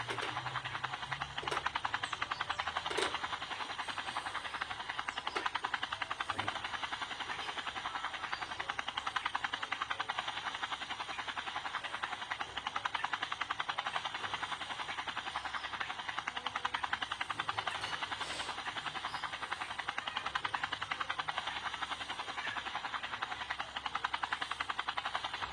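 Helicopter running with a steady, very fast pulsing beat.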